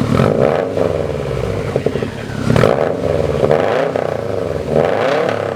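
2011 Subaru WRX STI's turbocharged flat-four revved hard several times through a freshly fitted Tomei Expreme Ti titanium 3-inch single-exit race exhaust, the pitch rising and falling with each rev.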